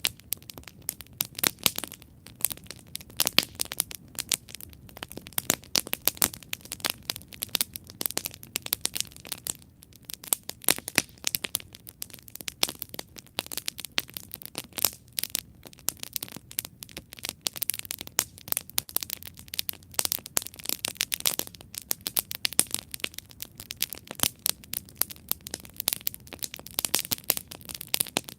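Campfire burning with dense, irregular crackling and popping over a soft low hiss.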